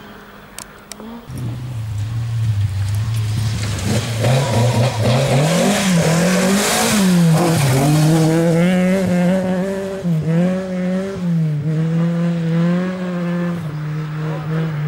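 Rally car engine at full throttle on a special stage, approaching and coming past loudest about six to seven seconds in. The engine note dips and climbs again several times through gear changes and lifts, then holds a steady pitch near the end.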